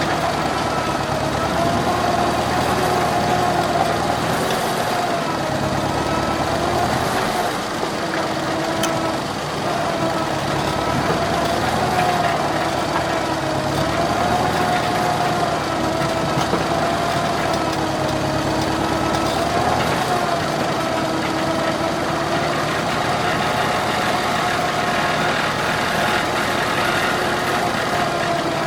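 McCormick Farmall H tractor's four-cylinder engine running steadily while working, its pitch wavering slightly up and down every few seconds as the load changes.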